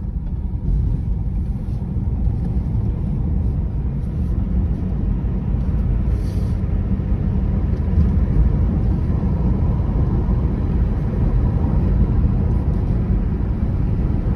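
Steady low rumble with a noisy hiss above it, like a vehicle on the move, cutting off suddenly at the end.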